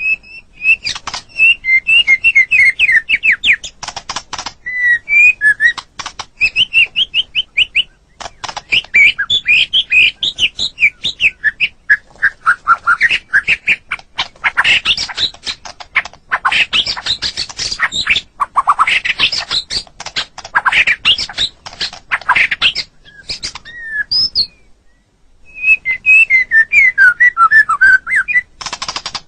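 White-rumped shama (murai batu) singing a fast, varied song of whistled phrases, rapidly repeated notes and harsh chattering, with a pause of about a second near the end.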